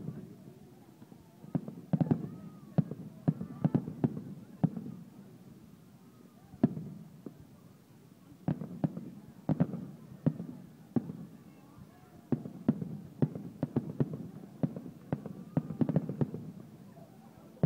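Aerial fireworks shells bursting in quick, irregular volleys of sharp bangs, with a thinner stretch of bangs in the middle.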